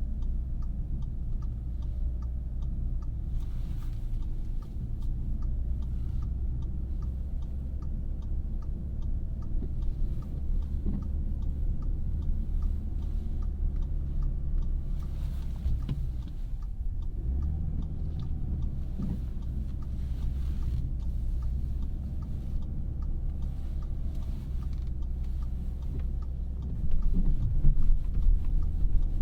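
Cabin noise of a 2017 Audi A3 being driven, a steady low rumble of road and engine, with faint, evenly spaced ticking through much of it. It grows louder near the end.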